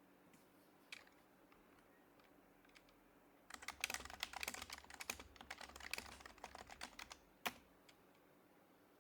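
Typing on a Happy Hacking Keyboard Professional HYBRID Type-S, whose Topre switches are silenced: a few scattered key presses, then a quick run of typing about three and a half seconds in. One sharper click follows near the end.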